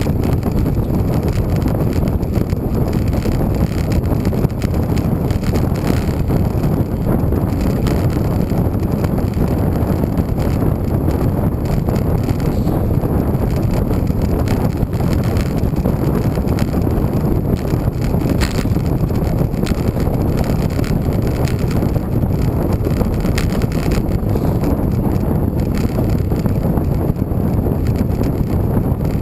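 Wind buffeting the microphone during a road bike ride, a steady low rumble with little else.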